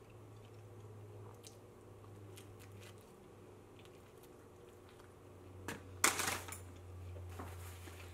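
Close-up mouth sounds of someone biting and chewing a piece of pizza crust, with soft clicks. A short, loud crackling noise comes about six seconds in, over a steady low hum.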